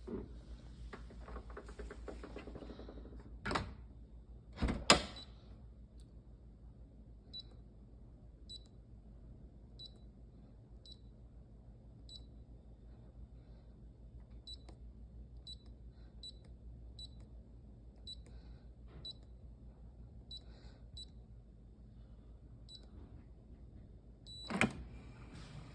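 GE dishwasher: a low steady hum, with sharp clicks about three and a half and five seconds in and again near the end, and faint short high blips scattered through the middle.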